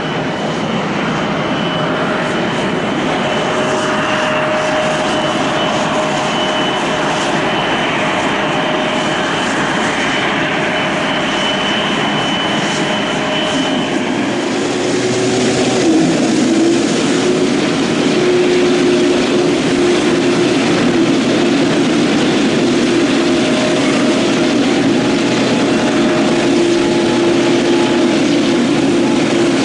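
Jet airliner engines. First a Bombardier CRJ regional jet is heard on its landing, its engines a steady loud rush with a high whine. About halfway through, the sound switches to an Airbus A320-family airliner at takeoff thrust, slightly louder, with a lower steady engine whine.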